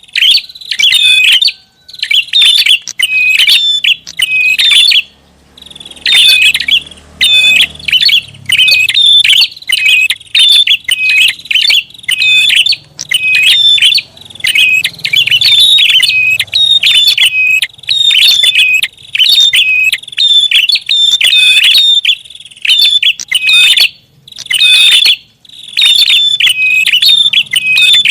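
Prinia (prinjak) calling, runs of rapid, sharp chirps repeated over and over with brief pauses between bursts, played loud as a bird-catching lure call.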